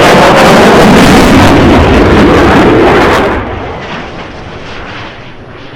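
Jet noise from an F-22 Raptor's twin turbofan engines, very loud and rumbling as the jet flies its display. About three seconds in it drops off sharply and then fades away.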